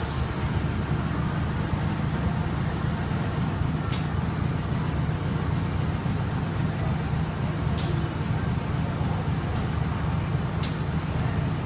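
Steady low rumble and hum of a passenger train carriage, with several short, sharp hisses at uneven intervals.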